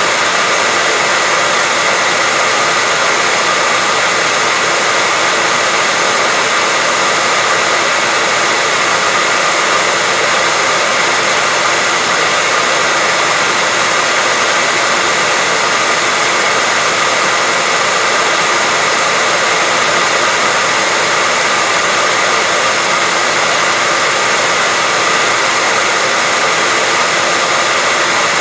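Hair dryer running steadily, a constant whooshing hiss with a steady high whine, played as continuous sleep noise for a baby.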